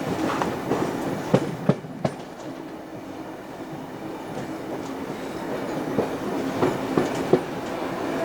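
Passenger train running along the track: a steady rumble with sharp clicks of the wheels over rail joints, a few in quick succession about a second and a half in and again near the end.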